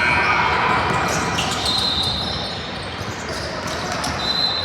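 Echoing sounds of a youth game in a gym: scattered thuds of play on the court, a couple of brief high squeaks, and spectators talking in the background.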